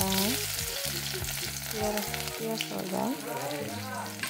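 Chopped onion hitting hot oil in an iron kadai and frying, with a steady sizzle that starts sharply as the pieces go in. Background music plays underneath.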